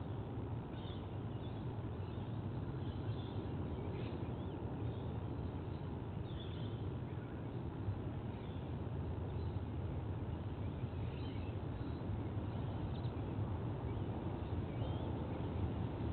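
Steady low outdoor rumble picked up by a nest camera microphone, with faint, scattered short bird chirps over it.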